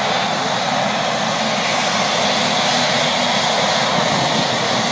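Jet airliner engines running, a steady loud rush of engine noise with no change in pitch.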